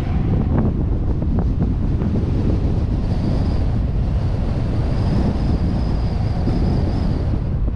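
Wind buffeting the microphone of a GoPro suction-mounted on a moving car, over a steady low rumble of road and engine noise. A thin high whine comes in about three seconds in and holds for several seconds.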